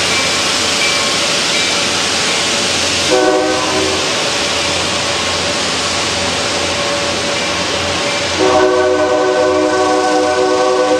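A train horn sounds a short blast about three seconds in and a longer blast from about eight seconds on, over a steady rushing noise of the train rolling.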